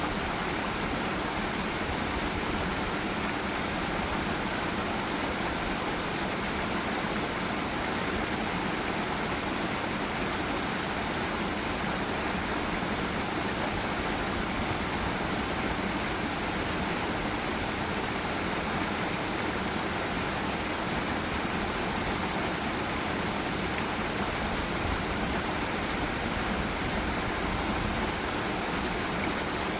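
Forest river and small waterfall rushing steadily, an even full-range water noise with no break or change.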